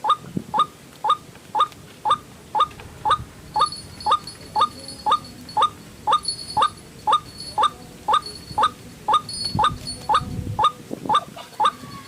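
White-breasted waterhen (ruak-ruak) calling over and over in short, sharp notes, about two to three a second. It is the repetitive call used to lure wild waterhens to a decoy. Thin, high twittering joins in a few seconds in.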